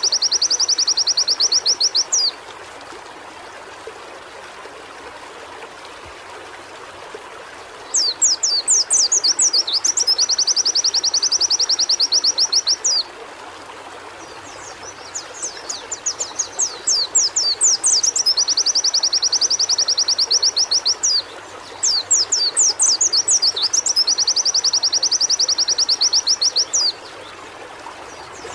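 Pleci (white-eye) singing in long fast series of rapidly repeated high notes. There are four series of about two to six seconds each, separated by short pauses, over a steady background hiss.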